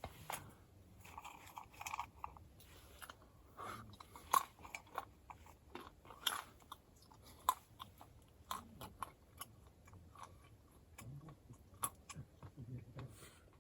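A person chewing and crunching food close to the microphone, in irregular bites.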